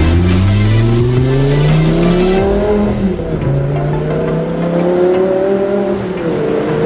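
A car engine accelerating hard. Its pitch climbs, falls back about three seconds in, climbs again and dips once more near the end.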